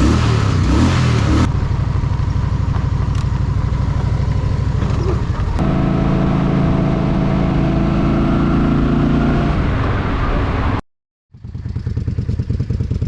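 Honda Shadow VT750's V-twin engine running while riding, with a steady, even pitch from about six to ten seconds. All sound cuts out briefly near eleven seconds, then the engine returns with a low, pulsing throb.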